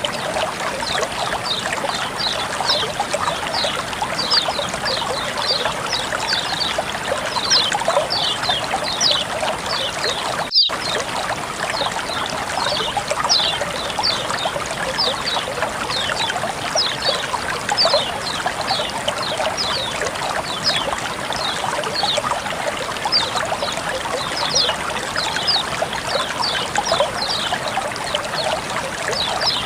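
Flowing water trickling and splashing steadily, with many small, high, quick drip-like notes over the rushing, and a momentary dropout about ten seconds in.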